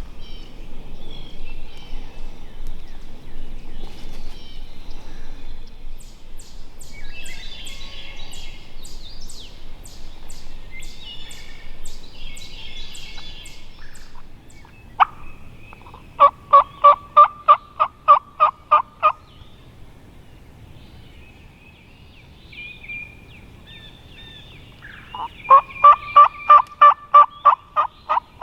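Wild turkey yelping: two runs of about a dozen evenly spaced, loud notes, each run lasting about three seconds, one past the middle and one near the end. Small birds chirp and twitter in the first half.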